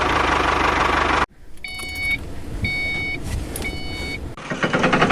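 An engine running steadily, which cuts off abruptly. Then three evenly spaced electronic beeps, about a second apart, like a reversing alarm. Near the end a pulsing engine sound starts again.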